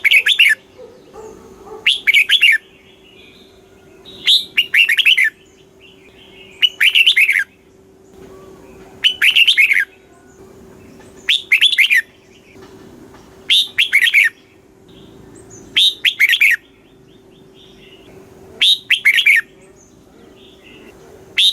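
Red-whiskered bulbul singing a short phrase of falling notes over and over, about once every two seconds, with a faint steady hum underneath.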